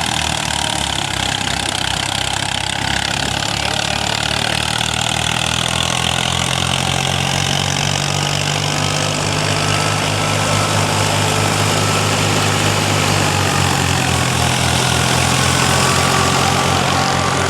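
Fiat 55 hp tractor's diesel engine running steadily at idle with an even low beat.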